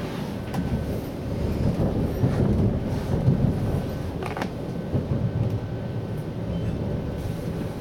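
Low, uneven rumble of a Siemens Desiro HC (class 462) electric regional train, with a couple of brief knocks, the clearest about four and a half seconds in, and a faint thin whine.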